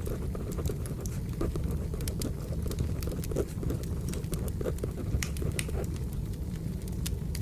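Wood fire crackling, with frequent sharp pops and snaps over a low steady rumble, and pencil-on-paper writing sounds layered in.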